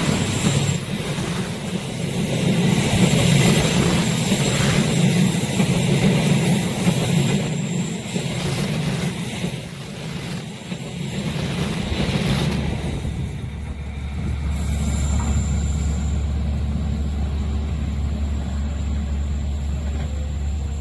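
A train passing a level crossing: a continuous heavy rumble with fine rapid wheel clatter. About two-thirds through it gives way to a steadier low drone.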